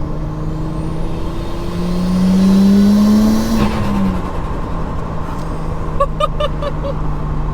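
Nissan Skyline R34 GTT's turbocharged RB25 straight-six accelerating, with a rising turbo whine, then lifting off about four seconds in. Because the blow-off valve is blocked, the trapped boost makes the turbo flutter, a quick stuttering chatter heard near the end.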